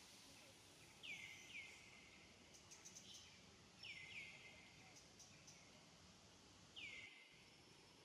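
Faint bird chirps: five short calls that sweep downward in pitch, two pairs and then a single one near the end, over a quiet outdoor hiss.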